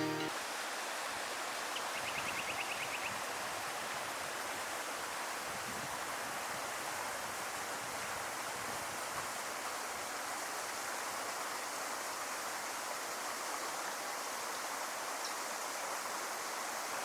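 Creek water flowing steadily in a continuous rushing hiss. About two seconds in, a brief rapid chirping trill.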